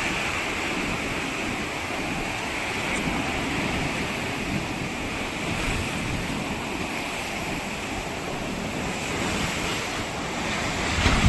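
Sea surf washing onto a sandy beach in a steady rush, with wind on the microphone; a wave surges louder near the end.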